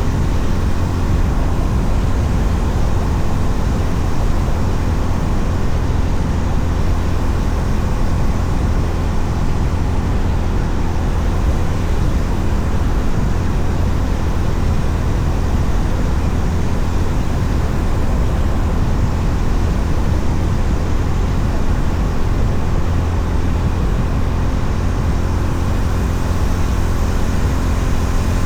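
Honda CB350RS motorcycle cruising at a steady speed: a constant low rumble of wind rush and engine with road noise, without any change in pace.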